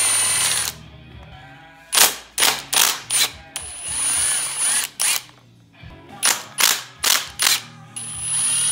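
Power tool running crankcase bolts out of a Honda ATC 200X engine case in whirring runs of about a second, with a high whine. Between the runs come quick sets of sharp metallic clicks.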